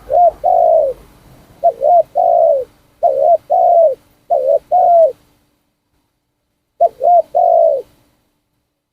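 Spotted dove cooing: five loud phrases, each a couple of short notes followed by a longer falling coo, with a pause of about a second and a half before the last phrase.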